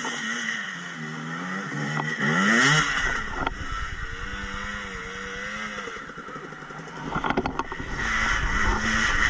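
Dirt bike engine running on a trail, its pitch swinging up and down with the throttle and revving up sharply about two to three seconds in. Heavy rumble and clatter near the end.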